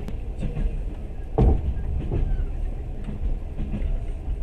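Passenger train running, heard from inside the carriage: a steady low rumble of the wheels on the track, with scattered light knocks and one heavy knock about a second and a half in.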